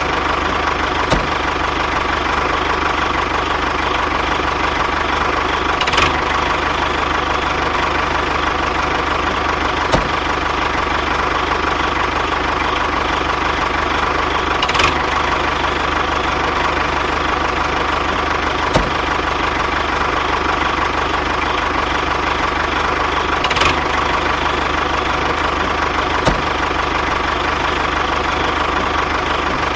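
A motor running steadily without a break, with a constant hum and a faint click every few seconds.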